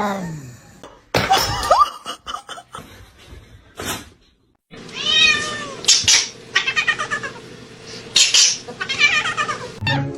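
A cat meowing and yowling in several long calls with wavering pitch, mostly in the second half.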